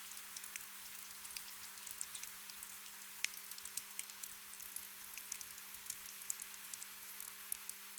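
Gentle rain: a steady soft hiss with many small drop ticks and patters scattered through it, over a faint steady low hum.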